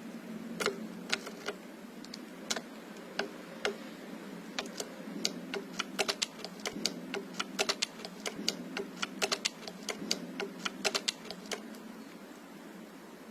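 Irregular series of sharp taps and clicks, coming faster in the middle and stopping shortly before the end, over a steady low hum.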